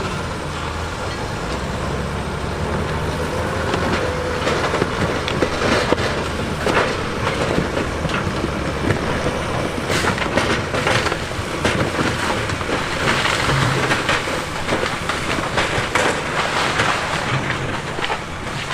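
Heavy earthmoving machinery at work: a diesel engine running under steady noise, with many sharp clanks and knocks from about four seconds in.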